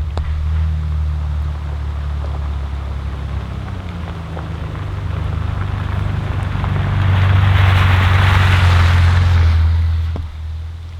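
Steady low rumble of a vehicle engine and road noise, with a hiss that swells about seven seconds in and eases off.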